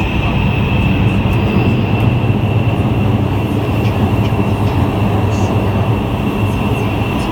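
Guangzhou Metro Line 1 train running: a loud, steady rumble with a thin high whine over it.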